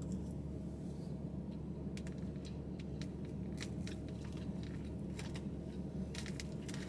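Close-up chewing with small wet mouth clicks, and a plastic fork picking at food in a foam takeout box, over a steady low hum. The clicks come in two clusters, around the middle and again near the end.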